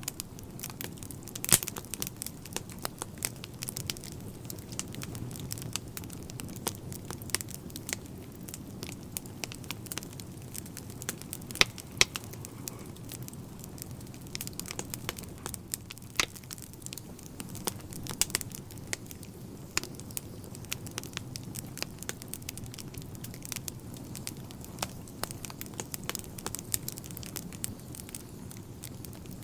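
Wood fire burning in a fireplace: irregular crackles and pops from the logs over a low steady rumble of flame, with a few louder snaps.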